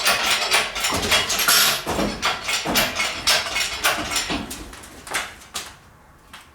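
Metal engine parts clanking, knocking and rattling as a component is worked loose and lifted out of an engine bay, busy for about five seconds, then only light handling noises.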